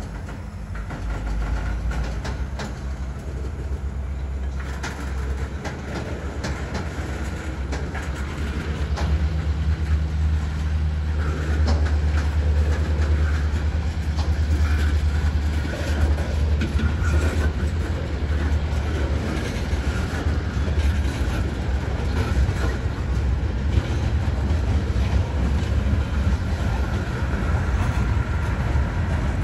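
Freight train with tank cars rolling by: a steady low rumble that grows louder about ten seconds in, with clicks of the wheels over rail joints.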